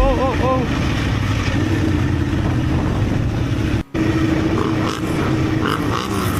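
Motorcycle running steadily with road and wind noise. A wavering tone fades out in the first half second, and the sound drops out briefly just under four seconds in, at an edit.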